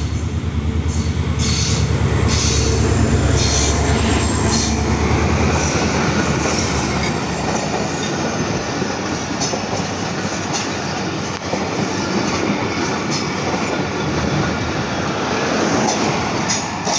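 Pakistan Railways HGMU-30 diesel-electric locomotive passing slowly with a deep engine drone that fades after about seven seconds. Its passenger coaches then roll by, wheels clacking over the rail joints.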